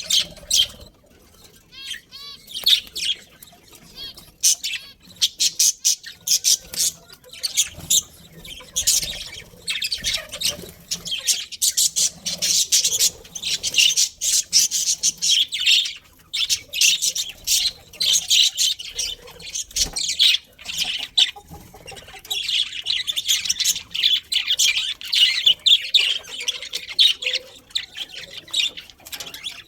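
Budgerigars chirping and chattering non-stop, many rapid high-pitched calls overlapping.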